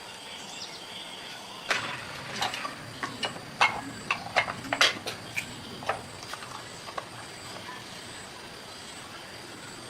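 Irregular run of about a dozen sharp knocks and clicks, the sound of hand tools and metal parts being handled during repair work, lasting about five seconds. Faint steady high insect chirring underneath.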